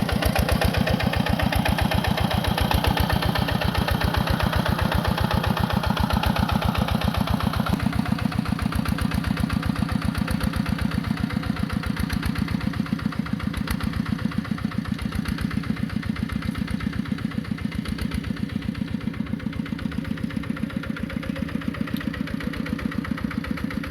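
Tractor engine running steadily with a rapid, regular chugging beat, growing slightly duller and quieter over the second half.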